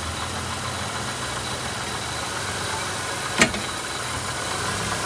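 1995 Toyota Camry engine idling steadily, with one sharp clunk about three and a half seconds in as the transmission is shifted. The owner asks whether this kind of clunk comes from bad CV shaft joints or worn rubber mounts.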